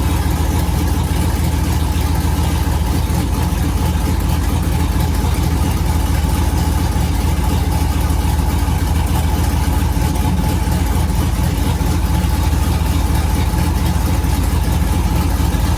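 Mud truck's engine idling steadily.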